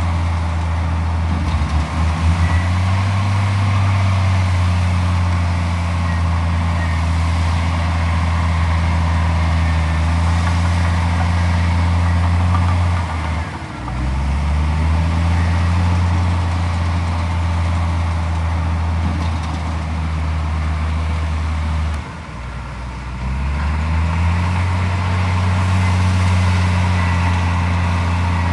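Komatsu D41P bulldozer's diesel engine working under load. Its pitch drops and then climbs back three times: near the start, about halfway through, and again after about 22 seconds.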